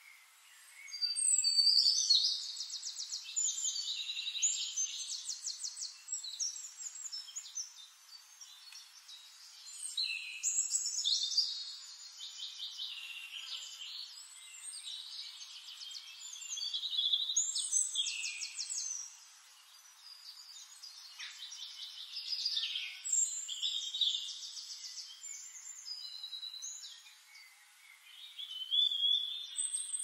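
A songbird singing high, varied phrases full of fast trills, in several bouts of a few seconds each with short pauses between.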